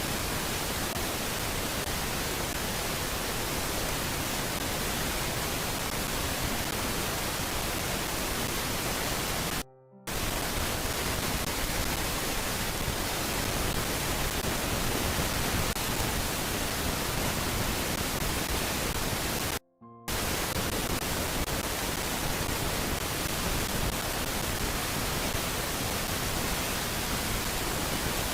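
Steady, even hiss like static over a nest-camera audio feed, with no bird calls standing out. It cuts to silence for a fraction of a second twice, about ten and twenty seconds in.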